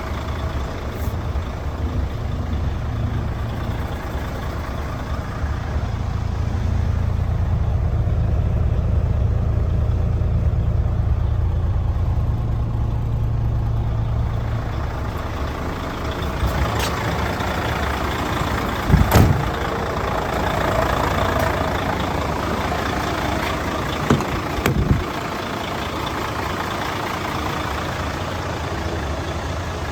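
Mercedes-Benz Actros 4140 truck's diesel engine running at idle, getting louder for several seconds in the middle before settling back. A few sharp knocks come about two-thirds of the way through and again a few seconds later.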